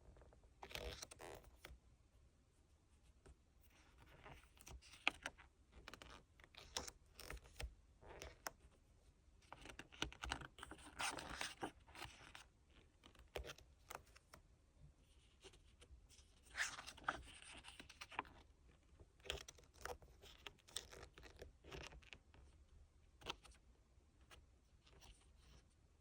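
Hands unpacking a K-pop album's photobook version: faint rustling of paper and plastic wrapping, with scattered light taps and scrapes.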